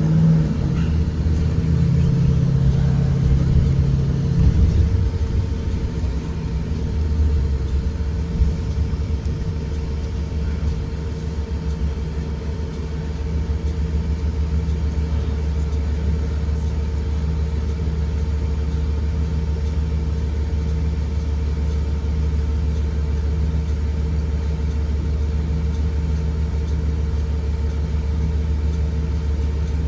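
Blue Bird Vision school bus running down the road, a steady low rumble with a constant hum. The engine note shifts over the first few seconds, then holds even.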